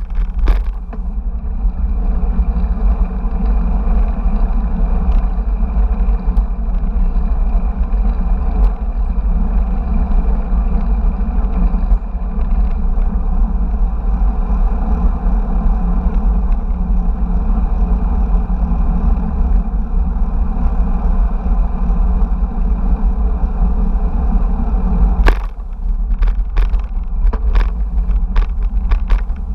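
Steady rumble of wind and road noise on a bike-mounted action camera while riding, with a run of sharp rattles or knocks near the end.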